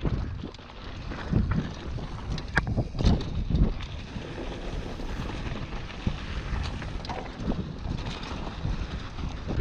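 Wind buffeting the microphone of a camera riding on a mountain bike, with a steady low rumble and irregular knocks and rattles as the bike rolls over rough dirt trail.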